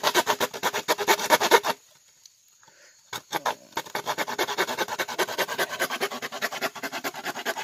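Bamboo rubbed hard back and forth in rapid, even strokes, in two bouts with a pause of about a second and a half between them.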